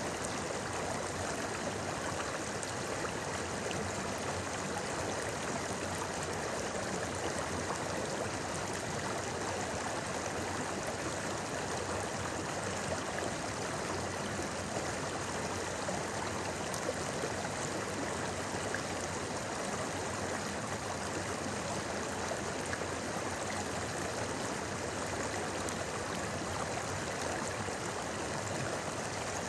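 Shallow river flowing and babbling over rocks, a steady even rush of water.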